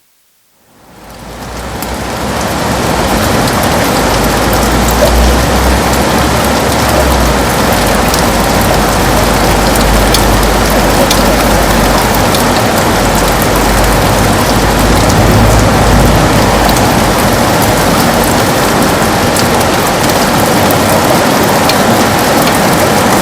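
Heavy rain falling steadily as a dense hiss, fading in from silence over the first two seconds, with a low rumble underneath through most of the first two-thirds.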